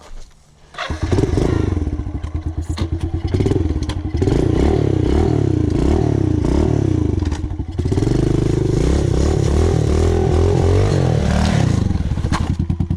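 110cc pit bike engine revving up and down over and over, its pitch rising and falling as the rider works the throttle on slippery ground. It starts abruptly about a second in and drops back to a lower, steadier pulse near the end.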